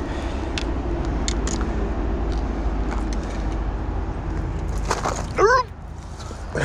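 Sticks and brush cracking as someone climbs through creek-bank undergrowth, heard as scattered sharp snaps over a steady low rumble. A short rising cry about five and a half seconds in is the loudest sound.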